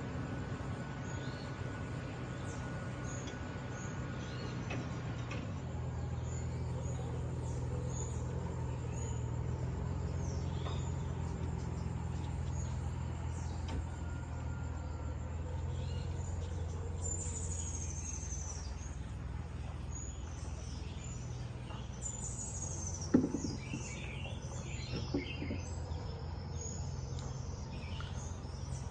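Tropical birds chirping and whistling, a few with falling whistles, over a steady low hum. A single sharp knock sounds about 23 seconds in.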